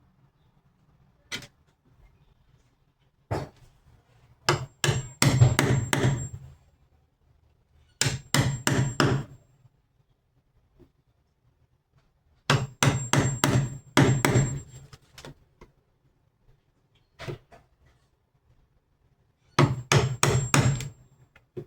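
Hammer blows on metal: a couple of single knocks, then four bursts of rapid strikes a few seconds apart, each with a thin metallic ring.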